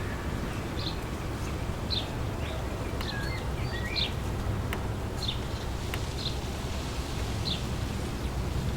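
Wind blowing through trees with a steady low rumble, while a bird repeats a short, high chirp about once a second. A second bird gives a brief warbling call about three seconds in.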